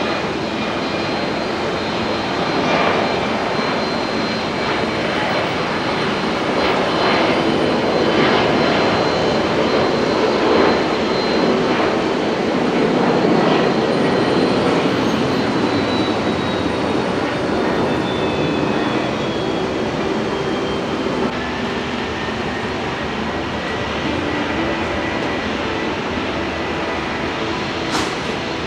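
Jet airliner engines, a steady roar that builds to its loudest around the middle and then eases, with a faint high whine slowly dropping in pitch. A single sharp click comes near the end.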